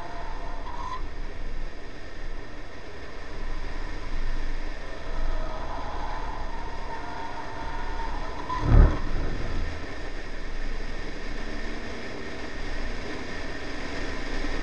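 Honda Civic's B18C4 1.8-litre VTEC four-cylinder engine running at speed on track, heard from a camera on the outside of the car with wind and tyre noise; the engine note climbs under acceleration. A single sharp low thump about nine seconds in.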